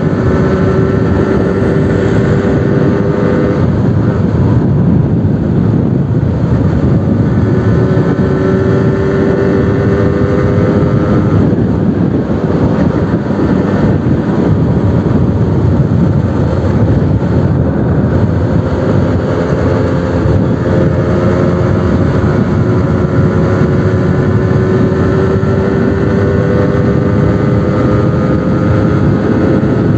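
Suzuki RC100 Bravo's single-cylinder two-stroke engine running through a new exhaust under a steady rushing noise, its pitch climbing slowly in three long pulls that each break off.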